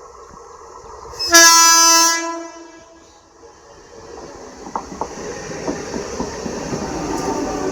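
Electric multiple unit train's horn sounding one loud blast of about a second, then the train's rumble and wheel clatter over the rail joints growing louder as it comes closer.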